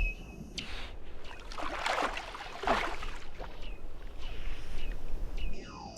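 Seals calling underwater: several whistling calls that sweep down in pitch, with steady high tones between them. Bursts of rushing noise sound in the first half.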